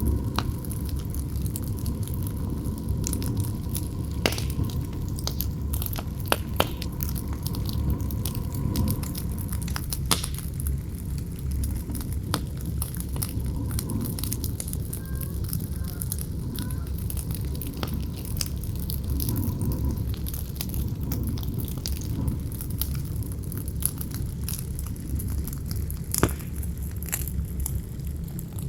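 Campfire crackling, with scattered sharp pops over a steady low rumble of wind.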